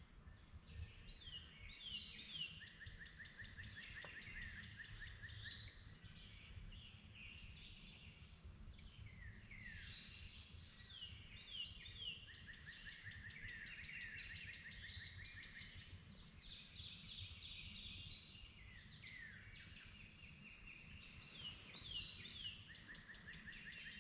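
Songbird singing faintly, repeating a phrase of a few quick down-slurred notes followed by a short trill about every ten seconds, over a steady low rumble.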